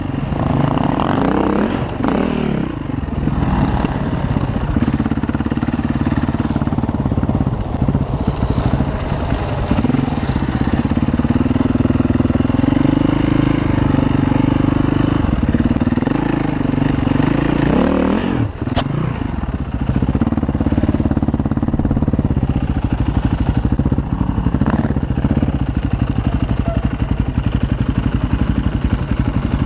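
KTM enduro dirt bike engine running under way off-road, its pitch rising and falling as the throttle opens and closes. A single sharp knock about two-thirds of the way through.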